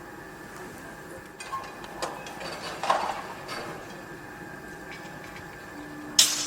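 Construction-site noise: scattered metallic clanks and knocks over a steady faint machinery hum, with a loud sharp metal bang about six seconds in.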